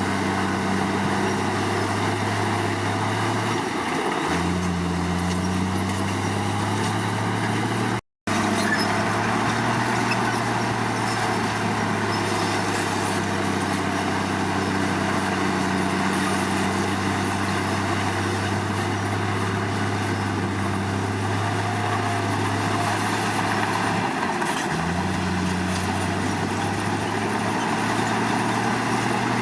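Komatsu D53 bulldozer's diesel engine running steadily under work, its note shifting about four seconds in and again near the end. The sound cuts out for a split second about eight seconds in.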